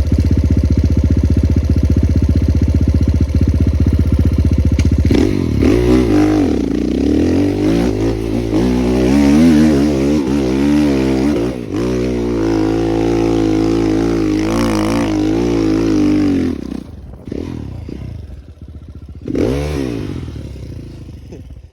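Enduro motorcycle engine running steadily for about five seconds, then revving up and down repeatedly as the bike is ridden, its pitch rising and falling. The engine falls away at about seventeen seconds, gives one more short rev near the end, and fades out.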